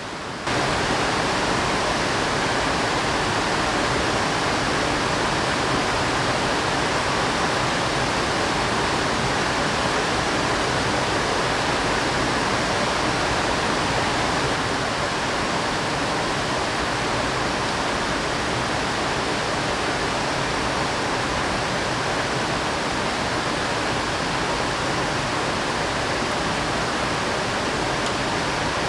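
Steady rush of running water, a dense even hiss with no separate drops or strokes, dropping a little in level about halfway through.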